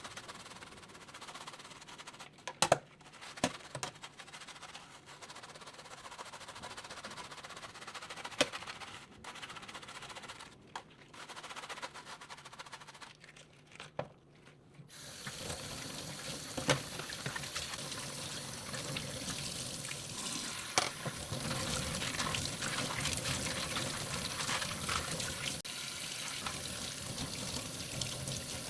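A few light knocks and clatters, then about halfway through a tap is turned on and runs steadily into a sink, with occasional clinks over the running water.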